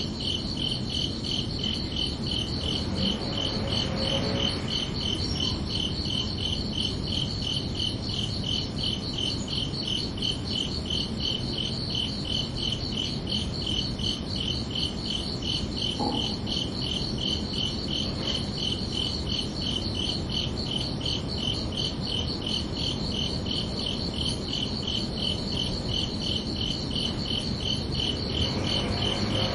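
Crickets chirping steadily in an even, unbroken pulsing rhythm, over a low background noise.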